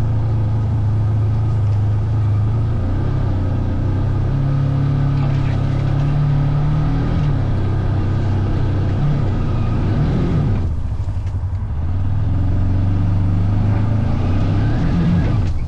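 Engine of a small off-road vehicle running under throttle while riding, its pitch rising and falling with the throttle. It eases off briefly about ten seconds in, then picks up again.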